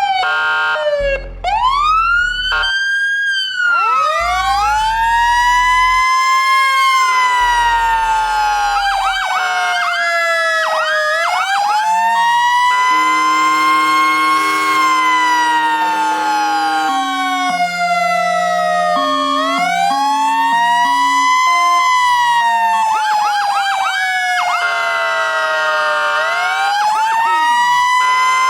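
Fire engine siren sounding a slow wail, its pitch rising and falling over several seconds at a time. It starts with a few quicker sweeps, and steady horn-like tones run under the wail in the middle stretch.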